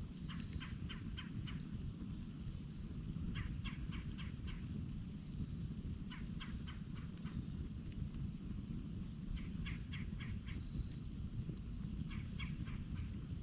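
A bird calling in quick series of four to six short notes, about five notes a second, the series repeated five times roughly every two to three seconds. Under it runs the steady low noise of a burning campfire.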